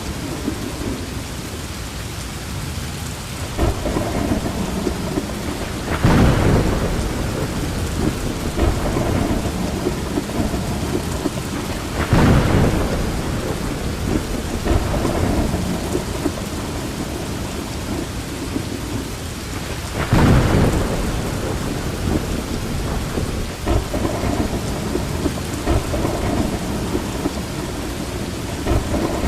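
Steady heavy rain with thunder rumbling through it, swelling into three louder peals about a fifth, two-fifths and two-thirds of the way through.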